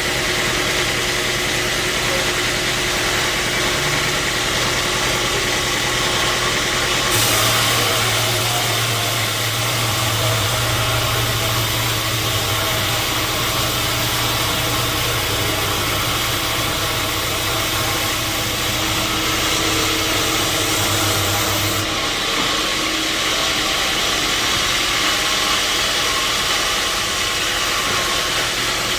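Sawmill saw running steadily. About seven seconds in, a louder hiss and a low hum set in for some fifteen seconds, then drop back.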